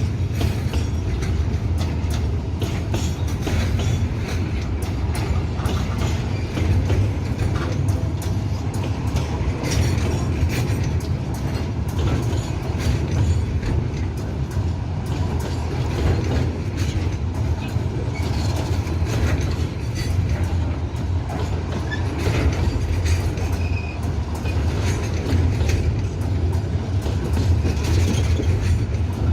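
Freight train rolling past: a steady low rumble with wheels clicking over rail joints and now and then a faint wheel squeal.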